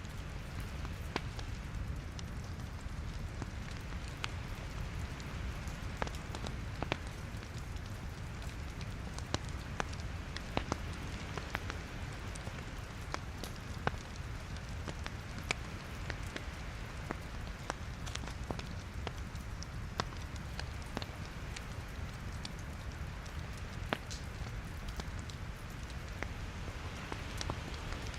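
Logs burning in a fireplace: a steady low rumble of flame with irregular sharp crackles and pops from the wood.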